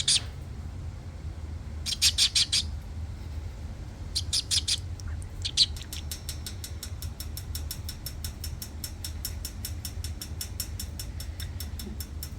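A pet parrot making short bursts of rapid high chirps and clicks, then a steady run of quick clicks at about five a second, over a low hum.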